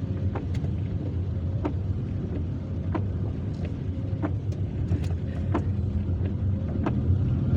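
Steady low rumble of a car's engine and tyres heard from inside the cabin while driving on a rain-soaked road, with scattered sharp ticks at irregular intervals.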